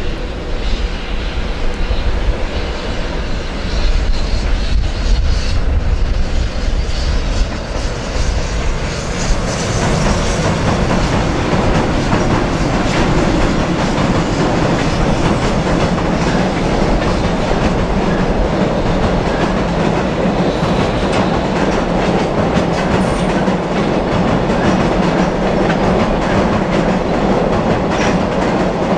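JR Freight EH500 electric locomotive hauling a long container freight train past, the wagon wheels clattering over the rail joints. About ten seconds in the sound grows louder and denser, then holds as a steady rumble and clatter from the container wagons crossing a steel girder bridge.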